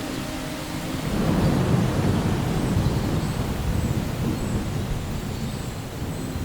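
Thunder rumbling over steady rain: a long low roll that builds about a second in and slowly dies away, with the rain hissing steadily throughout.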